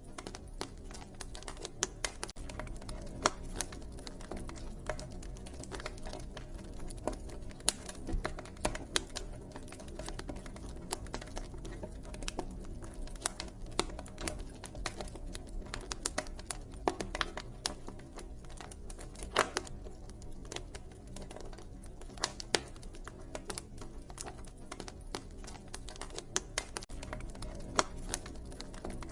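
Wood fire crackling, with many irregular sharp snaps and pops over a steady low background rumble.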